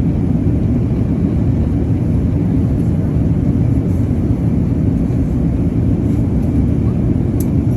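Steady, loud low rumble of an Airbus A380's engines and airflow heard inside the passenger cabin.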